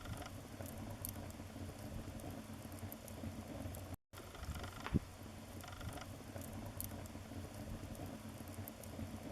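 Wood fire crackling in a fireplace: a steady hiss with scattered small pops and one sharper pop about five seconds in. The sound cuts out briefly about four seconds in.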